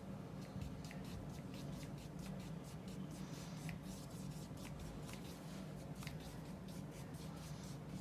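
Paintbrush bristles dragging oil paint across gessoed mixed-media paper in quick, light, repeated strokes, a soft scratchy sound several times a second, over a steady low hum.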